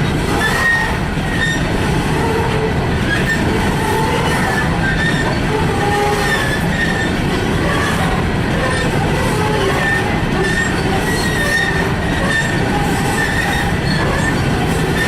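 Freight train cars rolling past on the rails with a steady rumble, with short wheel squeals coming again and again.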